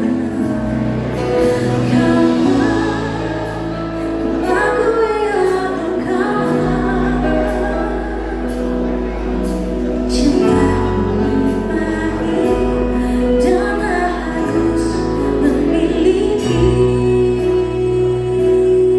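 Live band playing a pop song, a singer's voice over sustained bass notes and regular drum and cymbal strokes.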